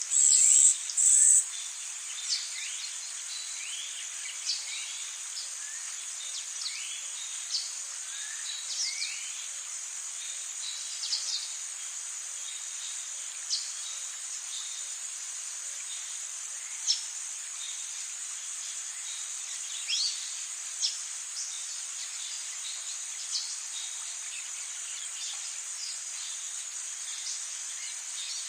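Rainforest ambience: a steady high-pitched insect drone, with scattered short bird chirps and rising calls. Two loud, high-pitched bursts come in the first second and a half.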